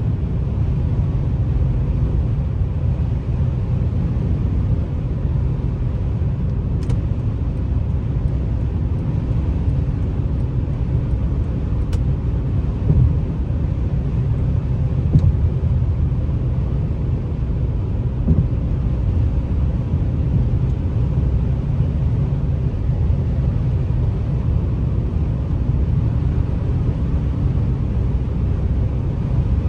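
2004 Lexus GS300 on the move: a steady low rumble of engine and road noise, with a few light bumps.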